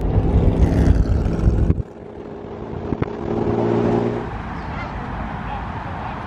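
Car engine and exhaust droning steadily at highway speed, mixed with road and wind noise. The sound breaks off abruptly about two seconds in and the engine drone comes back. From about four seconds only a steadier, quieter background noise remains.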